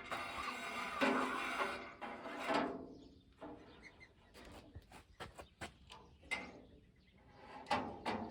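Metal parts scraping and sliding against the inside of a pickup tailgate for a few seconds, then scattered light clicks and taps as they are worked into place.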